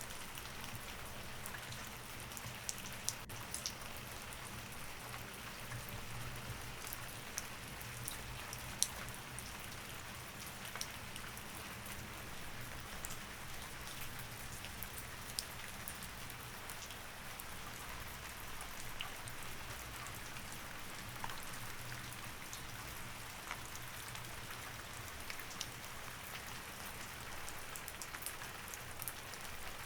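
Steady rain falling on a surface, with scattered individual drops ticking sharply over the patter and a faint low hum underneath.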